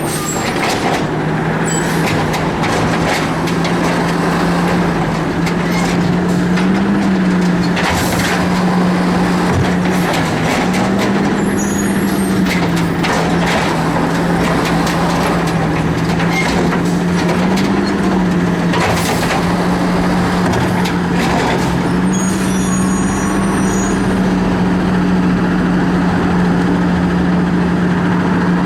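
Garbage truck's diesel engine running, its pitch stepping up and dropping back several times, with scattered clanks.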